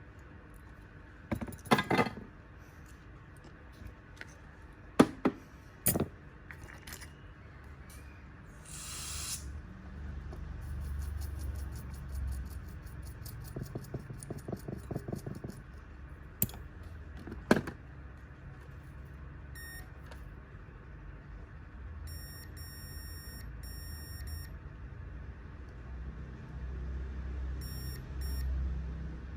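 Sharp clicks and taps of small tools on a bench, a short hiss, then a run of short electronic beeps, several in quick groups.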